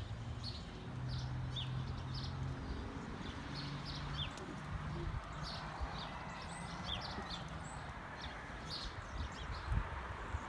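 Small birds chirping: many short, high chirps, a few a second, over a low steady hum.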